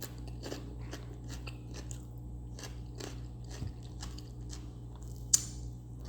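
Close-up chewing of crisp raw vegetables: a steady run of crunches, about two a second, with one sharper, louder crunch near the end, over a low steady hum.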